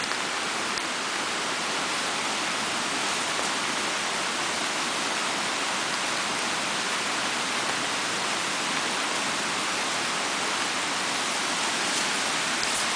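A small backyard creek in flood, running as a torrent with a steady rushing roar of fast water, including small waterfalls.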